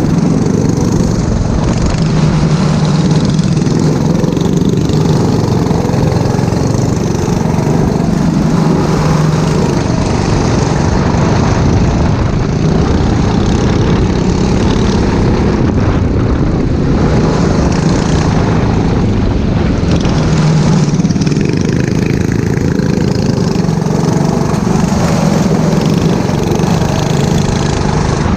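Four-stroke rental kart engine running hard on track, its note rising and falling every few seconds as the driver accelerates and lifts through corners.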